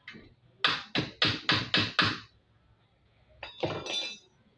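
Hammer blows: six sharp strikes in quick succession, about three a second, then a shorter rougher clatter near the end.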